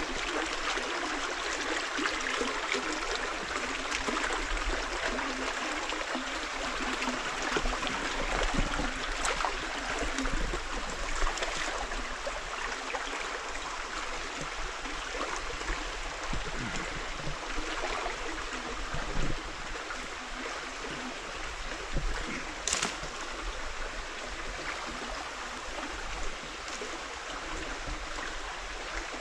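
Rocky river water rushing and gurgling steadily over stones, with one sharp click near the end.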